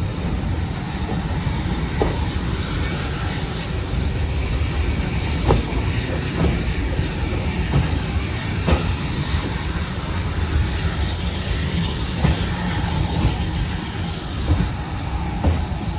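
Railway carriage running along the line: a steady rumble of wheels on track, with sharp knocks every few seconds as the wheels pass over rail joints.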